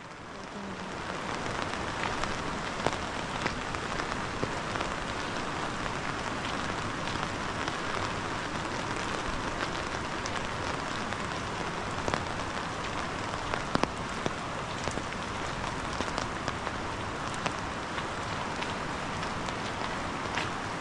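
Steady rain falling, with individual drops striking close by as sharp ticks scattered through it. The sound fades in over the first two seconds.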